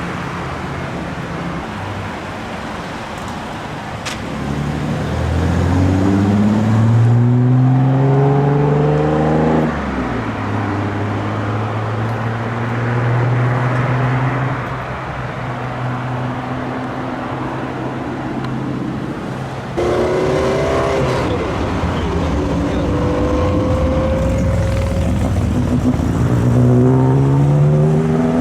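Classic Japanese car engines revving and accelerating. The exhaust note climbs in pitch from about five seconds in, holds at a steady pitch through the middle, and climbs again in the last third, with abrupt changes between passages.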